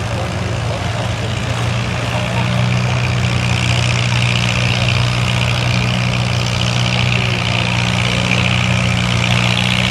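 An antique farm tractor's engine runs at a steady, constant pitch as it pulls down the track. A higher hiss joins it and grows louder about two seconds in.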